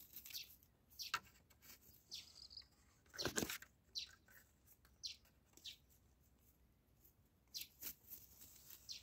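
Faint, scattered short bird chirps, a dozen or so quick downward notes, with a brief rustle a little over three seconds in.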